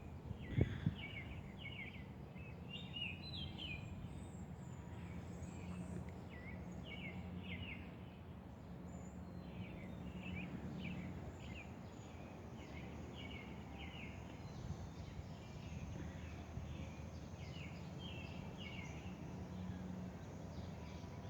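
Small birds chirping, many short repeated calls, over a steady low outdoor hum, with a couple of brief knocks about half a second in.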